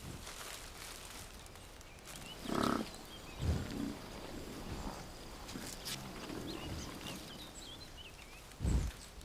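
European bison grunting a few times, with the deepest and loudest grunt near the end.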